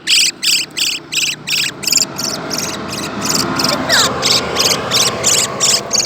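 Bird calls: short, high, rapidly trilled chirps repeating evenly about three times a second, with a brief falling whistle about four seconds in.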